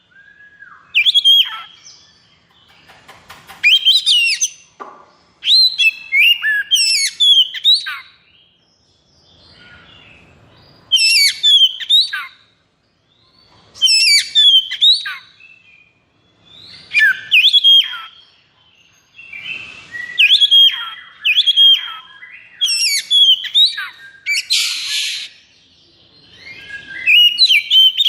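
Oriental magpie-robin (kacer) singing in agitated, fighting-style bursts of rapid, sharp whistled and sliding notes every couple of seconds, with short pauses between. Near the end it gives one harsh, buzzy rasp.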